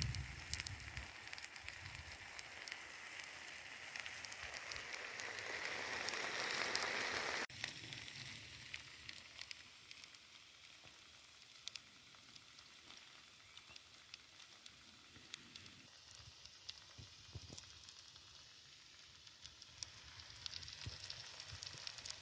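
Faint sizzling of food cooking over a fire, with scattered small crackles. The hiss swells for several seconds, cuts off abruptly about a third of the way in, stays quiet with occasional crackles, and rises again near the end.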